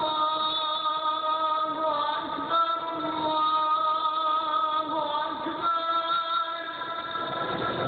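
A single voice chanting in long held notes with small pitch steps and bends: melodic Islamic chanting at an Eid prayer.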